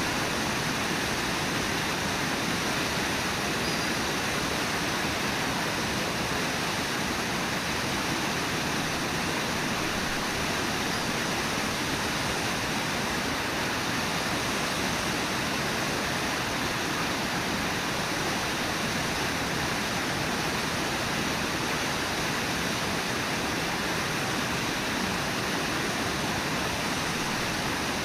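Brooks Falls on the Brooks River: a steady, unbroken rush of water pouring over the falls.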